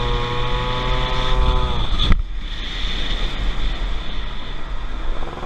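Motorcycle engine held at steady revs, its pitch dropping about two seconds in; then an abrupt change to wind rushing over the microphone with the engine running underneath.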